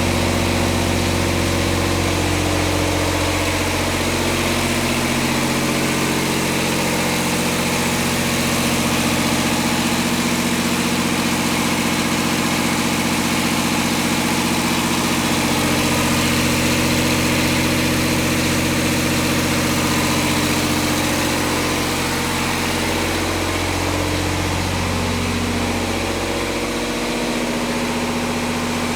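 Scania 13-litre PDE (unit-injector) six-cylinder diesel engine idling at a steady, even speed.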